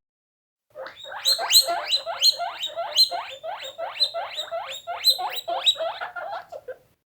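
Squirrel chirping: a fast run of sharp, downward-sweeping chirps, about three a second, that starts about a second in and stops shortly before the end.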